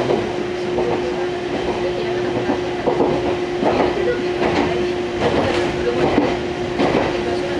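Fukui Railway Fukubu Line train running at speed, heard from inside the car: a steady motor hum over the rumble of the wheels, with repeated clattering as the wheels pass over rail joints.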